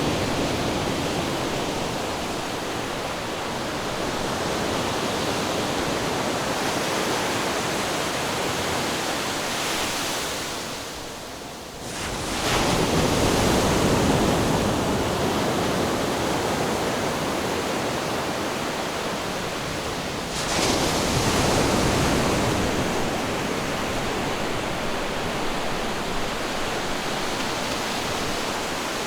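Ocean surf: a steady wash of waves, with a wave breaking and surging about 12 seconds in and another about 20 seconds in.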